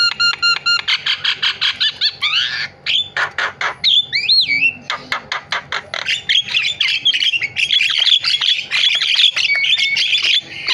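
Javan myna singing a varied song: runs of rapid, repeated harsh notes, a wavering whistle about four seconds in, then a dense, fast chatter.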